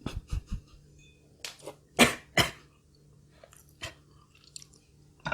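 Close-miked eating sounds: chewing, in short irregular bursts separated by quiet, with the two loudest about two seconds in.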